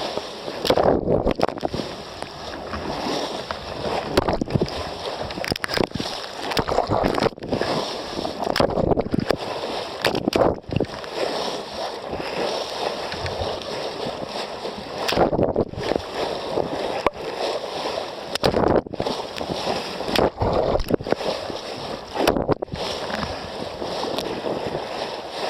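Water rushing and sloshing along the hull of a moving sailboat, swelling and easing every couple of seconds.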